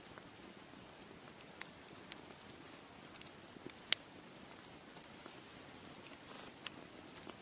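Wood fire crackling: scattered sharp pops and snaps over a soft steady hiss, with one louder pop about four seconds in.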